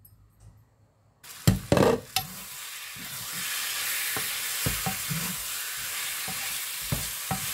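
About a second of near silence, then spiced potatoes and green peas sizzling in oil in a frying pan as a wooden spoon stirs them. Two loud knocks come about a second and a half in, followed by lighter knocks of the spoon against the pan.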